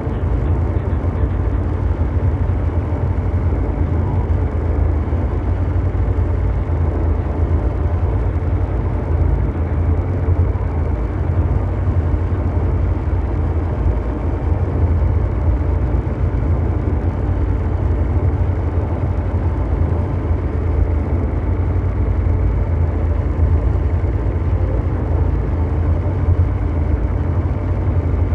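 Continuous low mechanical drone noise, an engine-like rumble in the manner of brown noise. It is strongest in the deep bass and holds steady throughout, with no distinct events.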